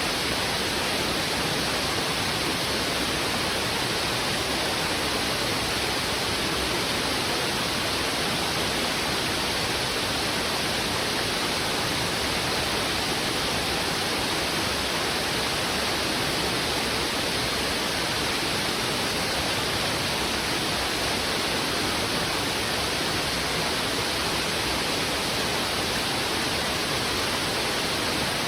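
Heavy river water rushing over rocks in a steady, unbroken roar of flowing water.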